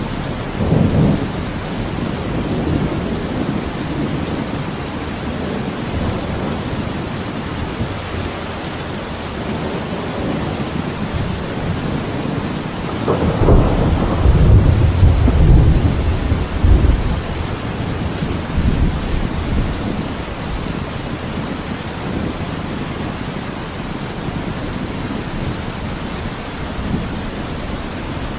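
Thunderstorm: steady heavy rain with low rolls of thunder, a short one about a second in and a longer, louder rumble around the middle lasting a few seconds.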